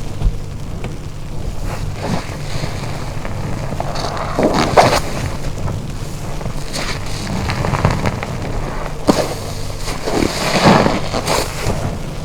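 Wet car wash sponge being squeezed and rinsed: water squelching and splashing in irregular bursts, loudest about four and a half and ten and a half seconds in, over a steady low hum.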